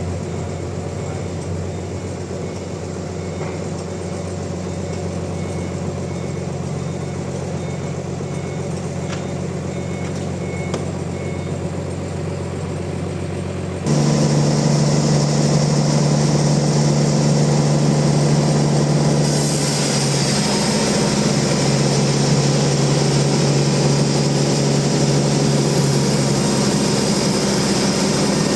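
Bandsaw mill machinery running with a steady engine hum. About halfway the sound jumps louder and settles on a different pitch, and a few seconds later a steady high hiss joins.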